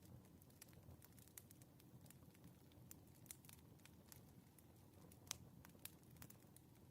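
Faint crackling of a wood fire: irregular small pops and snaps over a low rumble, with one louder pop about five seconds in.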